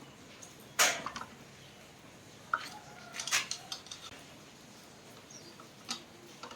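Scattered clicks and clinks of small metal tools and parts being handled: a sharp one about a second in, a cluster about three seconds in, and another near the end.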